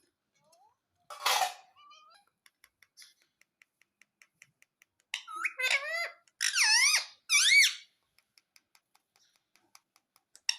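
Pet ring-necked parakeet calling: a short harsh squawk about a second in, a run of faint ticking sounds, then a string of loud, squeaky calls that bend up and down in pitch about five seconds in.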